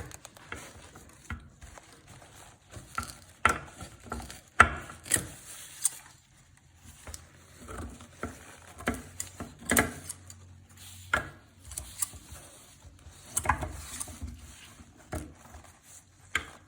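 Irregular clicks, snips and light knocks of handwork with scissors on a coconut-coir sheet: loose fibre threads being trimmed and the piece being handled, with a few sharper clicks scattered through.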